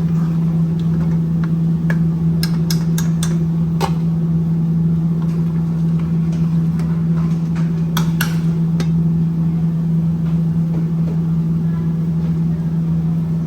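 Steady low machine hum with a few sharp clinks of a metal utensil against the cooking pot as the chicken curry is stirred. The clinks come in small clusters about two and a half seconds in and again about eight seconds in.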